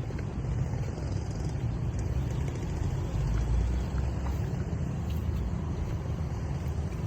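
Steady, deep outdoor rumble with no clear events, of the kind made by passing road traffic.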